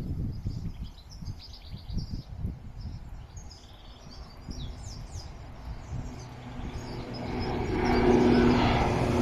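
Small birds chirping over a fluctuating low rumble; then, about two-thirds through, the Bombardier Dash 8-Q400's turboprop engines and propellers swell up loud on takeoff, with a steady propeller hum.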